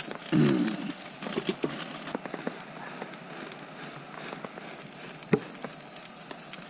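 Steaks sizzling on a charcoal grill over hickory, a steady hiss dotted with small crackles and pops. A brief low voice sound comes near the start, and a sharp click about five seconds in.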